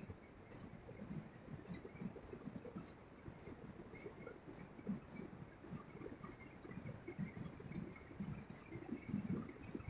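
Faint, even high ticking, about three ticks a second, over a low rustle.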